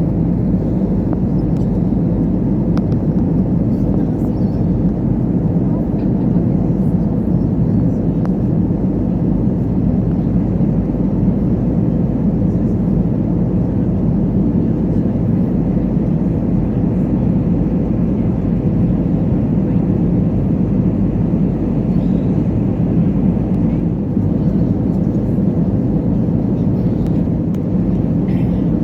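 Steady cabin noise of an Airbus A320neo in flight: a constant low rumble of engines and airflow, with a faint steady hum.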